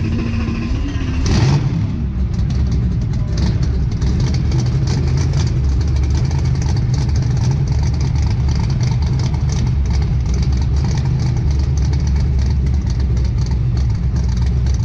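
Twin-turbo Corvette drag car's engine running at idle, a steady low engine note with a choppy, fluctuating low end as the car creeps along. About a second and a half in there is a brief louder burst.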